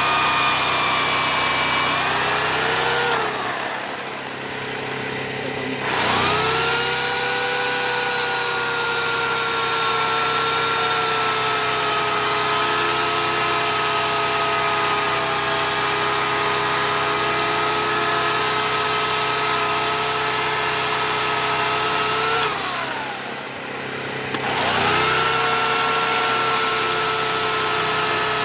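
Oregon CS1500 15-amp electric chainsaw running with a steady motor whine while cutting wood. Twice the trigger is let off: the whine winds down for a couple of seconds, then spins straight back up.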